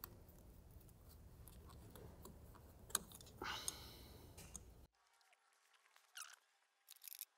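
Faint clicks and a short scrape of pliers squeezing a small spring hose clamp on an evap purge hose, over near-silent room tone. The room hiss drops out about five seconds in, leaving only a few faint clicks.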